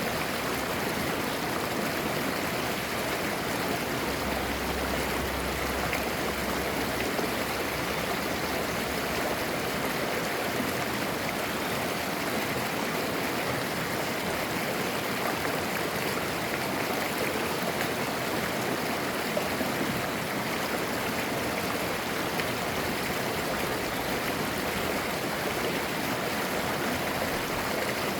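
Clear valley stream flowing and babbling steadily.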